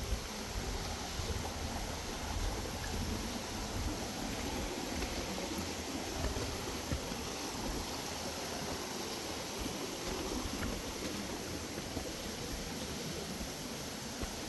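Steady rush of a flowing stream, with uneven low rumbling on the microphone.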